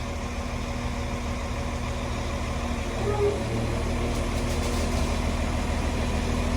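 Class 195 diesel multiple unit's underfloor diesel engines running as the train pulls out of the station, a steady low drone growing gradually louder.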